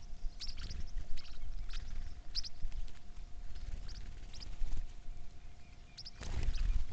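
Small birds chirping: short high chirps repeating every half second or so, over a low rumble, with a louder rush of noise near the end.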